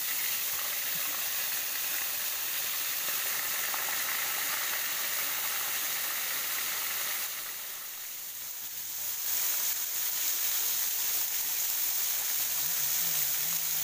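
Fish frying in hot oil in a wok over a wood fire: a steady sizzle that dips briefly about eight seconds in, then carries on.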